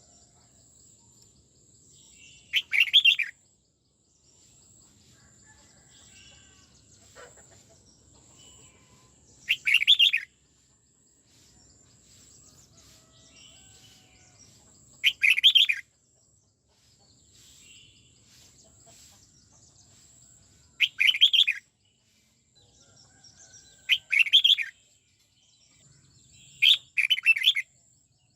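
Red-whiskered bulbul singing: six loud, short song phrases, each under a second and several seconds apart, with faint softer chirps in between.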